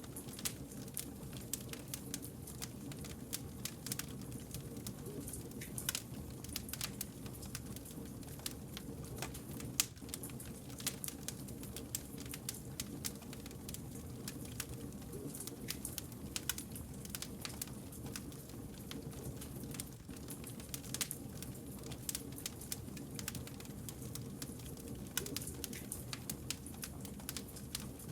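Wood fire crackling: irregular sharp pops and snaps of burning logs over a steady low rumble of the flames.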